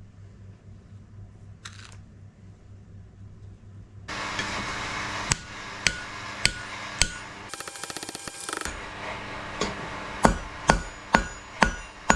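Hand hammer striking steel on an anvil, about ten sharp blows in two runs, each ringing briefly, over a steady rushing noise that starts about four seconds in.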